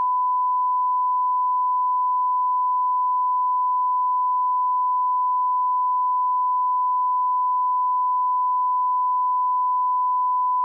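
Steady 1 kHz sine-wave line-up tone at −18 dBFS: a single pure, unwavering beep held at a constant level, used as an audio reference test signal.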